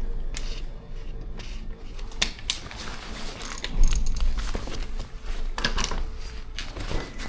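Metal parts of an electric bicycle being handled: a few sharp clicks and clinks, two of them with a brief metallic ring.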